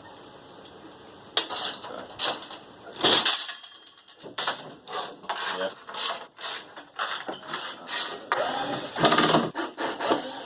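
A run of short mechanical clicking and rattling bursts, roughly two a second, starting about a second and a half in, with a longer burst near the end.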